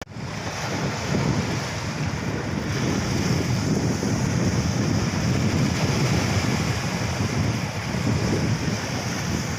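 Steady rushing noise of wind, with irregular low buffeting on the microphone.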